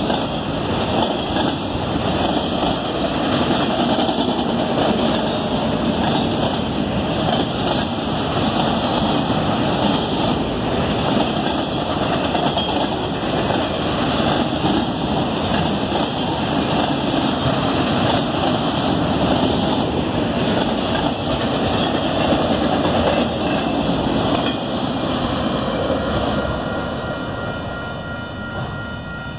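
Autorack freight cars rolling past close by: a steady rumble and rattle of steel wheels on the rails. It fades over the last few seconds as the end of the train goes by.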